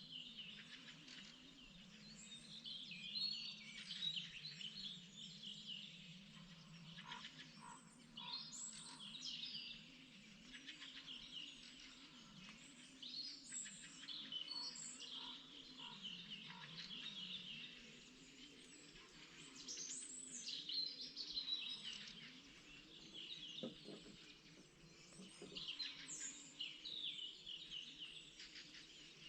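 A spring dawn-chorus-like mix of several songbirds singing at once, overlapping chirps and trills with no pause. Beneath them runs a faint low, wavering drone.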